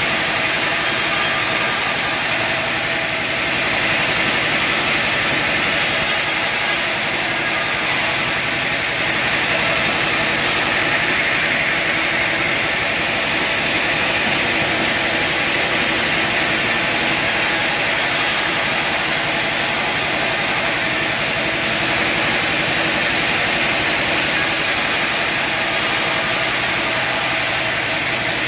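Bandsaw sawmill running steadily: a constant engine and blade drone with a hiss over it, unbroken and even in level.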